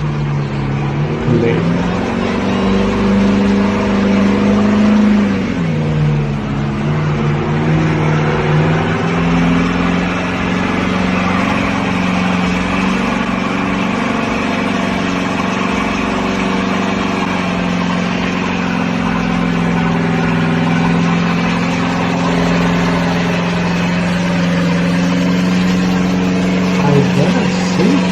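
Truck engine and exhaust running with a steady drone throughout. The pitch dips briefly about a second in and again from about five to eight seconds, then holds steady for the rest.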